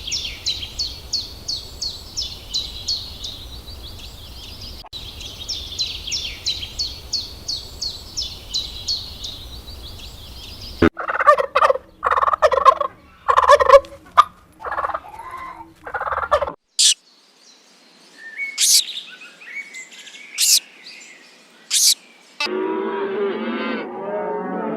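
A run of different bird calls. First a small bird sings fast, high repeated notes in two long phrases. Then a farm fowl gives a series of loud calls for about five seconds, followed by a few short high calls, and near the end a lower animal call begins.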